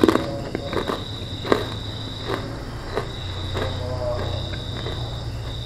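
Close-up chewing of a crunchy kerupuk cracker: a few sharp crunches a second or so apart, the sharpest at the very start and about a second and a half in. Behind it a cricket chirrs steadily in a high trill.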